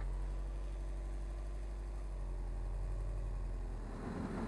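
Subaru WRX STI's turbocharged flat-four engine running steadily under light throttle as the car tries to pull away with its wheels spinning on free-turning rollers. About four seconds in, a coarser rumble joins it, the tyres working on the rollers as traction control brakes the spinning wheels.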